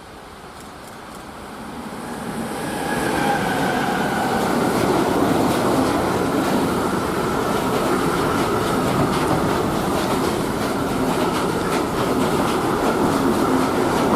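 Train approaching, getting louder over about three seconds, then passing close by with a steady rumble of wheels on rails and repeated clicking over rail joints.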